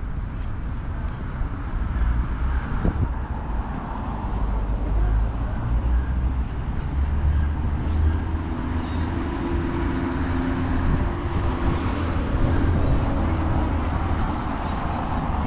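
City street ambience: road traffic passing steadily, with a constant low rumble under it.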